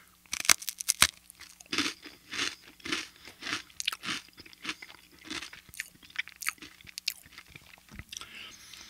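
Close-miked biting into a crisp cracker: a few sharp, loud crunches in the first second, then steady, rhythmic chewing at about two chews a second that grows softer toward the end.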